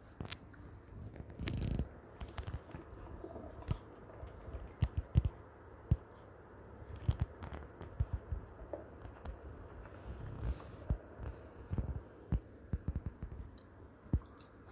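Maltese puppy rummaging for food and chewing it: irregular small clicks, knocks and scraping noises, scattered throughout.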